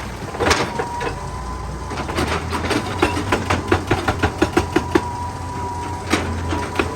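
Heavy excavator engine running steadily, with a rapid run of sharp knocks, about five a second, from about two seconds in to about five seconds in, and a few more near the end.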